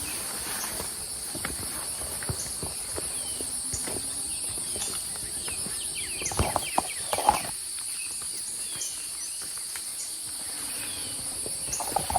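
Steady high-pitched insect chorus of a tropical mountain forest, two shrill bands held without a break, with a few short bird chirps. A handful of thumps and rustles about six to seven seconds in.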